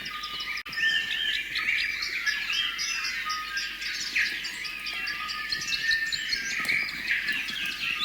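Many small birds chirping and twittering together in a dense, continuous chorus of short rising and falling notes. The sound cuts out for an instant just under a second in.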